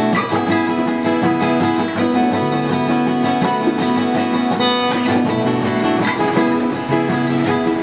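Music: a strummed acoustic guitar playing an instrumental passage of a slow song, with no singing.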